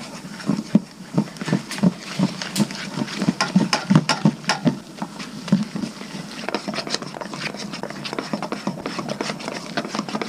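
Batter being whisked in a bowl: a quick, irregular run of clinks and taps as the whisk strikes the bowl, several a second.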